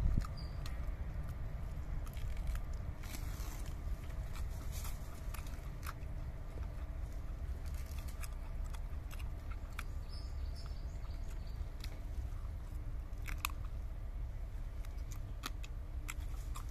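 A man chewing and biting on pieces of cooked rabbit meat, with scattered small clicks and crunches over a steady low rumble.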